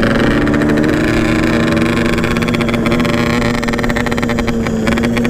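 Two-stroke motorcycle engine under way, held at a steady, nearly even pitch.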